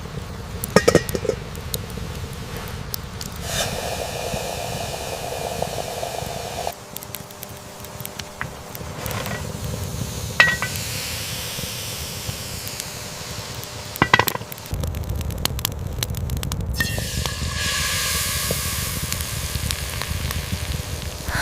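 Food sizzling in a pot over a campfire, with a few sharp clinks of a utensil against the pot. The steady hiss changes abruptly a few times.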